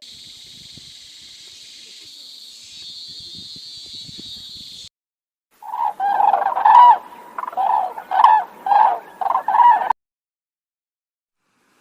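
A steady high hiss lasting about five seconds. After a short gap comes a rapid run of about eight loud, pitched calls from a domestic fowl, which cut off sharply.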